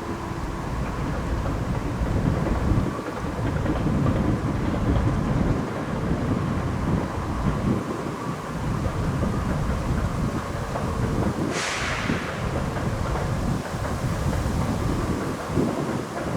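Freight train rolling slowly past with a steady low rumble, wind buffeting the microphone. A short hiss breaks in about twelve seconds in.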